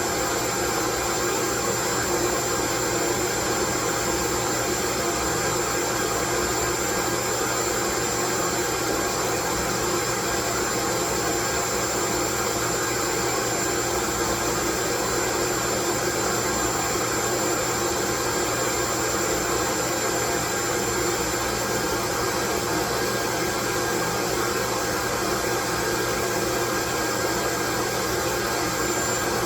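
Steady, loud white noise, unchanging throughout, with a faint thin high whine running through it.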